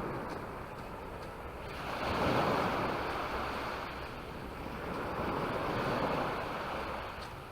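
Small Mediterranean waves breaking and washing up the shore, the wash swelling about two seconds in and again a few seconds later, with some wind on the microphone.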